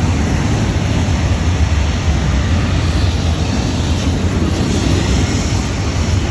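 Double-stack intermodal freight train of container-laden well cars passing close by: a loud, steady rumble of steel wheels on the rails.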